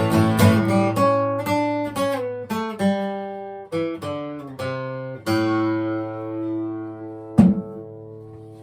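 Acoustic guitar playing the closing bars of a song: a run of strummed chords and picked notes, then a chord about five seconds in left to ring and fade, with one last sharp strum near the end.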